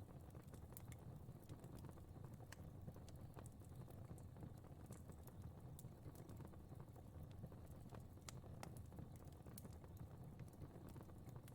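Fireplace fire crackling faintly: irregular small pops and snaps over a low, steady rumble of flame.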